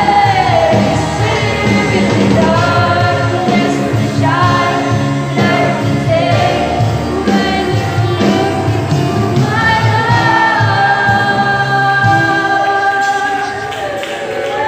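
Youth choir singing a gospel song with music, voices holding long notes.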